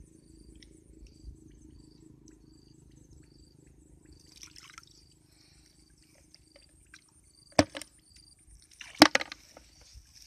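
Water splashing: two sharp splashes about a second and a half apart near the end, over a faint steady hum and faint high, regular ticking.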